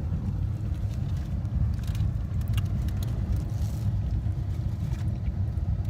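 Steady low rumble of a car's cabin, engine and road noise, with a few faint clicks.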